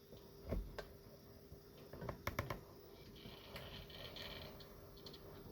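N gauge model locomotive creeping slowly along the track with a faint motor whine and a few small clicks of its wheels over the rails, a cluster of clicks about two seconds in.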